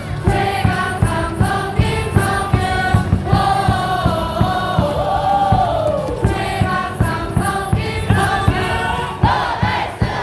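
A stadium cheering song blares over the ballpark speakers with a steady drumbeat, and a large crowd of fans sings along in chorus.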